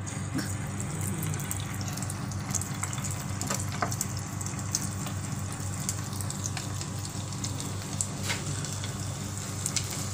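Batter-coated shrimp deep-frying in hot oil: a steady sizzle with scattered sharp crackles and pops.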